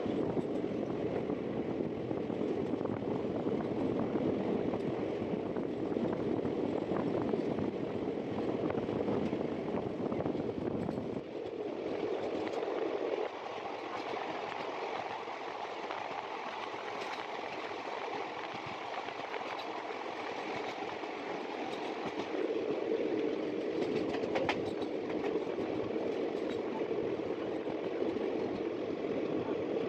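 Running noise of the Kalinga Utkal Express passenger coach heard at its open window: wheels on rail and the coach body rumbling steadily. The deep rumble falls away about eleven seconds in, and by the end the train is running inside a tunnel.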